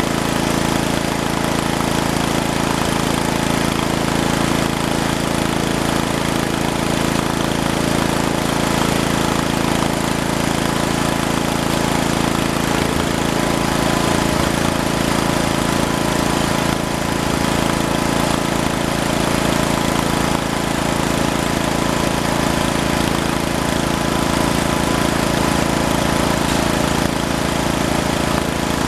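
Small engine of a snow-plowing vehicle running steadily at an even speed.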